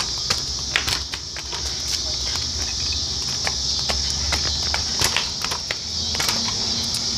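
Kick scooter riding over pavement: a steady low rumble from the small wheels, with frequent irregular clicks and rattles.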